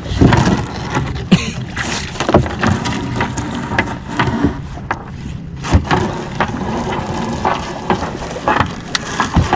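A crab gillnet being hauled aboard a small fishing boat: irregular knocks and clatter of the net and tangled sticks of wood against the hull, over a steady low hum.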